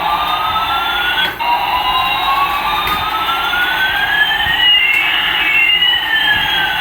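Electronic siren-like wail: clean tones sweep slowly up and down, one rising as another falls so that they cross, with a brief break about a second and a half in.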